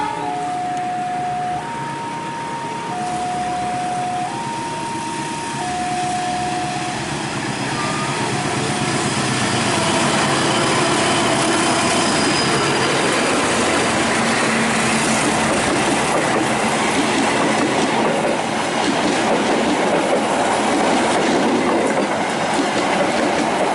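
Passenger train passing through a station. Its wheel and carriage noise builds from about eight seconds in and stays loud. For the first several seconds a two-tone signal alternates between a lower and a higher pitch, each note lasting about a second and a half.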